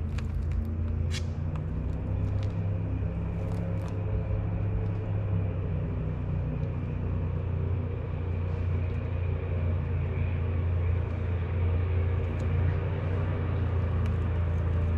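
Steady low engine rumble that runs on without a break.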